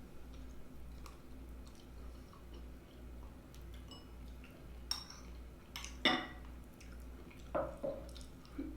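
Eating sounds: a fork clinking and scraping against a plate a few times, most sharply about five to six seconds in, with quiet chewing, over a low steady hum.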